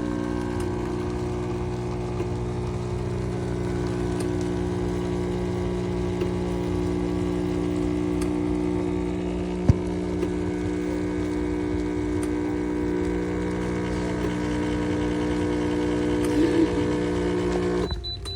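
Espresso machine's pump running with a steady hum while brewing. There is a single sharp tap about halfway, and the pump cuts off suddenly near the end.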